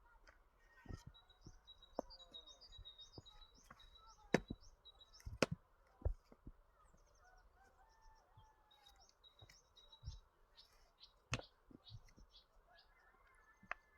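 Birds chirping and calling, with a few sharp knocks or clicks scattered through, the loudest a little over four seconds in, around five and a half seconds, and about eleven and a half seconds in.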